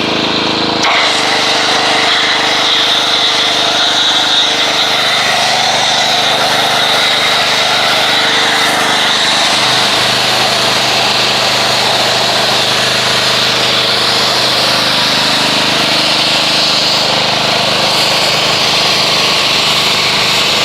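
Pressure washer running while its foam cannon sprays degreaser foam: a steady motor drone under a loud hiss of spray that starts within the first second. The drone changes pitch about ten seconds in.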